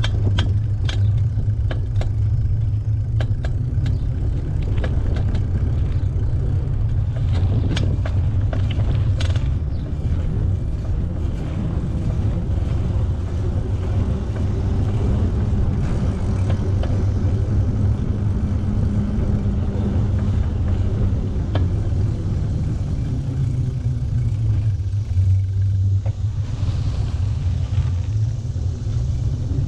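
Bicycle ride with a steady low rumble of wind buffeting the camera microphone, with light clicks and rattles, most of them in the first ten seconds or so.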